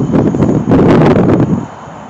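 Wind buffeting the microphone in loud, uneven gusts, over the rumble of a passing freight train. The gust drops off sharply about one and a half seconds in.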